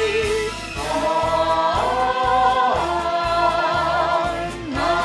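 Choir of young voices singing long held notes with vibrato over a recorded instrumental accompaniment; one held note ends about half a second in and new sustained chords follow.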